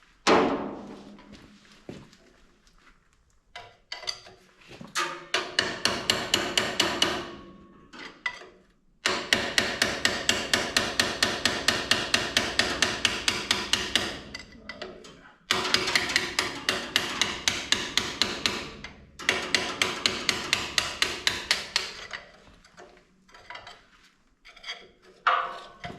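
Rapid hammer blows ringing on steel, about five a second in four runs of a few seconds each, struck to knock a seized part of a tractor's steering drag link assembly loose after it was soaked with penetrating oil.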